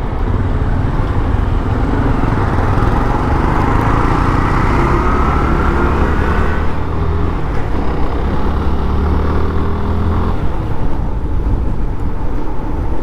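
Suzuki Gixxer motorcycle's single-cylinder engine running under way, with steady wind and road noise; a tone rises for a few seconds near the middle as it picks up speed.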